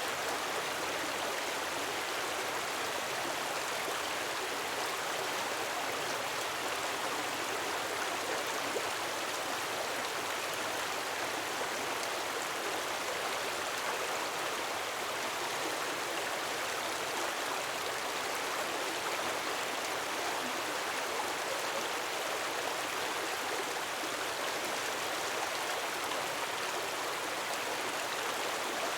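Gentle waterfall: a steady, even rush of falling water with no breaks or swells.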